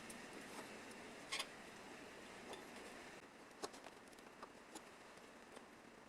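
Near silence: faint room hiss with a few scattered light clicks and taps, the clearest about a second and a half in and a few more past the middle.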